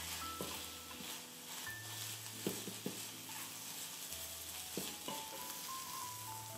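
Eggs and greens sizzling in a nonstick frying pan as a wooden spatula stirs them, with a few sharp taps of the spatula on the pan, three in quick succession around the middle. Soft background music plays underneath.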